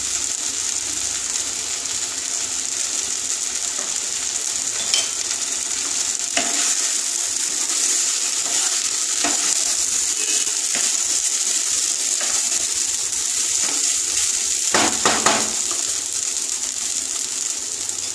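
Foxtail-millet pulao sizzling steadily in a pan, stirred with a wooden spatula that scrapes and knocks against the pan now and then. The knocks are loudest about fifteen seconds in.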